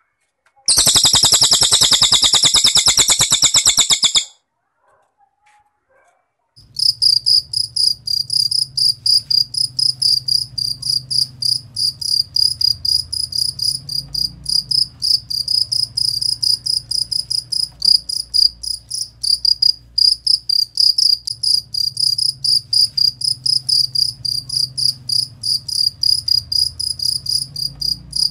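A cililin bird's rapid, high buzzy trill lasting about three and a half seconds, then after a short gap a cricket chirping in a fast, steady rhythm of short high pulses, several a second, over a faint low hum.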